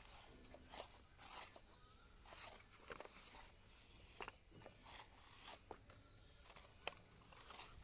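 Near silence, with faint irregular clicks and rustles.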